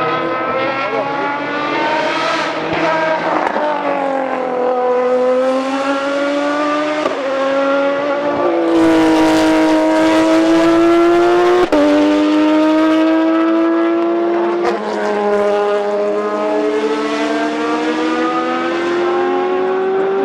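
GT race car engine at full throttle, climbing in pitch through the gears with a sharp drop at each of several upshifts.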